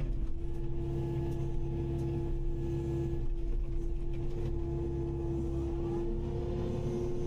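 Kubota KX080-5 excavator running steadily as it works, a constant pitched hum over a low diesel rumble.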